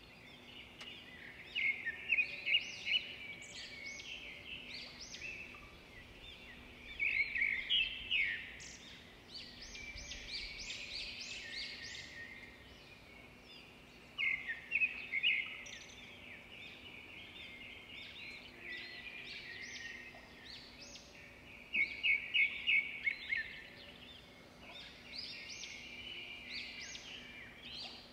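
Songbirds singing: bouts of quick chirping phrases every few seconds over a faint steady background.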